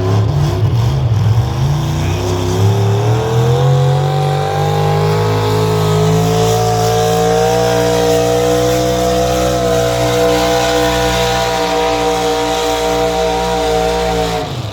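Competition pulling vehicle's engine at full throttle under load. Its pitch climbs over the first few seconds, then holds high and steady, and it stops abruptly near the end.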